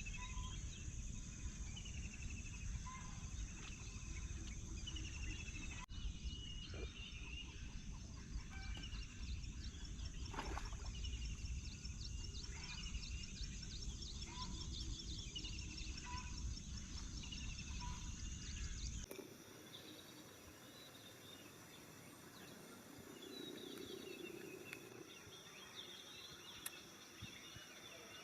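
Outdoor dawn ambience: insects trilling steadily while a bird repeats short falling calls every second or two, over a low rumble. About two-thirds of the way through, the sound cuts abruptly to a quieter scene with fainter bird calls and insects and no rumble.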